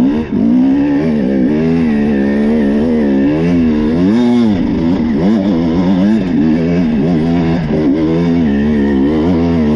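KTM TPI two-stroke enduro bike's engine working under load up a steep loose climb, its revs rising and falling every half second or so as the throttle is worked. There is a brief drop in revs right at the start.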